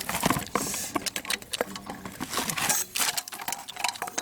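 A rapid, irregular run of clicks and light knocks.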